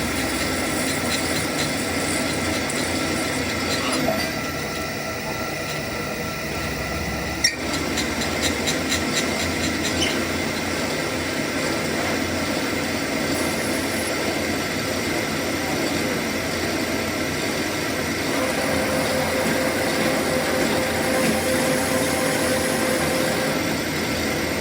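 A workshop machine running steadily with a constant whine, with a sharp metallic click about seven and a half seconds in followed by a quick run of ticks.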